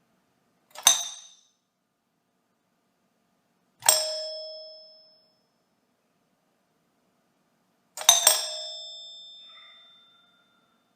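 Doorbells ringing three separate times: a short ding about a second in, a single ding that rings out for over a second about four seconds in, then a quick double strike near the end that rings out for about two seconds.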